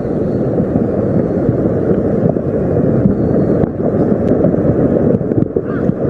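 Strong wind buffeting the microphone: a loud, steady, low rushing roar with no clear pitch.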